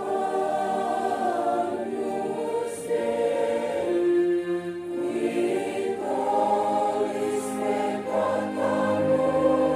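Church choir singing a hymn in long held phrases, with a brief breath between phrases about five seconds in.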